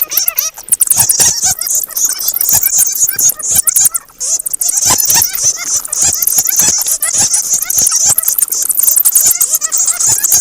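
A group of bats squeaking and chittering: a dense, continuous stream of rapid clicks and short high squeals.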